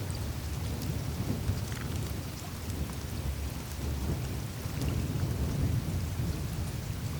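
Melting surface of the Greenland ice sheet: meltwater running through small channels in the glacier ice, heard as a continuous low, fluctuating rumble, with faint scattered ticks and crackles of melting ice over it.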